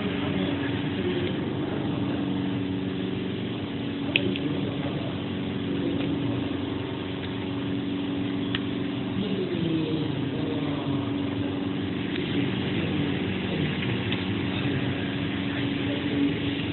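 Digital flatbed CNC cutting machine running: a steady mechanical hum with tones that slide in pitch as the cutting head moves, and two sharp clicks, about four seconds in and near eight and a half seconds.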